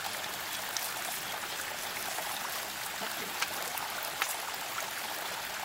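Steady rushing of running water, with a few faint ticks over it.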